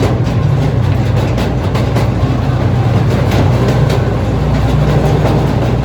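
Park ride-on train rolling along its track, heard from aboard: a steady loud running rumble with faint irregular clicks.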